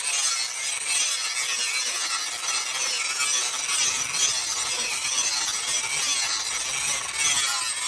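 Steady rasping of metal being shaped by abrasion, a file or grinder working a forged piece, with no distinct strokes.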